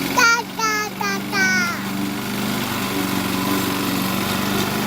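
Small gas walk-behind lawn mower engine running steadily while mowing. A child's high voice calls out a few times in the first two seconds.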